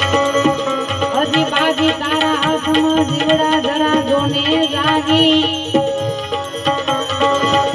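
Gujarati santvani bhajan music: a wavering lead melody over steady hand-drum beats and shaken, jingling percussion.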